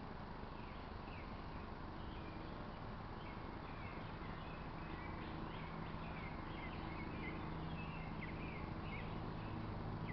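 Birds chirping in many quick, overlapping short calls, busiest in the middle seconds, over a steady low hum.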